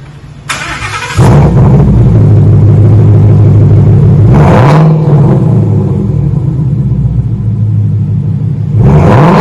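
2018 Ford Mustang GT's 5.0 V8 exhaust, through single-chamber V-tube mufflers, a true X-pipe and factory catalytic converters. The engine is cranked and starts about a second in, then idles with a deep rumble. It is revved briefly twice, about four seconds in and again near the end.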